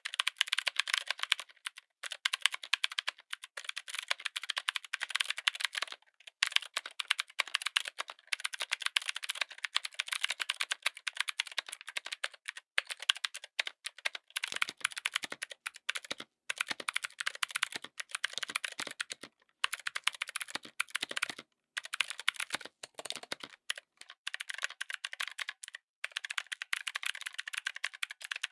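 Fast typing on a mechanical keyboard fitted with clicky switches: a dense run of sharp clicks, broken by several brief pauses, with some deeper key thuds through the middle.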